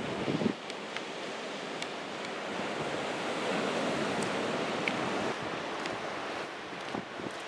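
Ocean surf washing in steadily, swelling louder in the middle, with wind on the microphone and a short louder burst right at the start.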